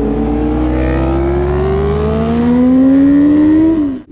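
Honda sport motorcycle's engine under acceleration, its pitch rising steadily and growing louder for about three and a half seconds, then falling off just before the end.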